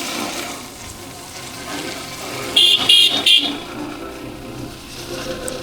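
A vehicle horn gives three short, high-pitched honks in quick succession about two and a half seconds in, over the steady noise of a motorcycle ride.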